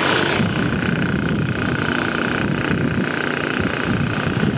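A vehicle running steadily, its engine and road noise continuous with a constant high whine.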